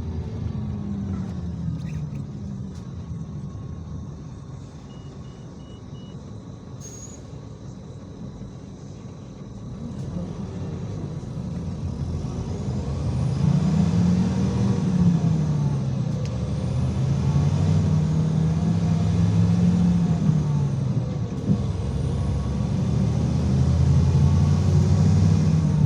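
IVECO Crossway 13M PRO city bus heard from on board: the engine slows and runs quietly for several seconds, with a row of short electronic beeps about five seconds in. From about ten seconds it pulls away and accelerates, the engine getting louder, its pitch rising and dropping back with each gear change.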